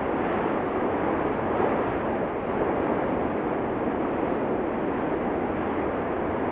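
Steady, rushing roar of the Cumbre Vieja fissure eruption, even in level, with no separate blasts.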